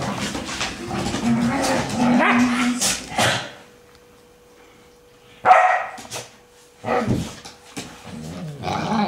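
Pet dogs barking as they play, with a sudden loud bark about five and a half seconds in after a brief lull.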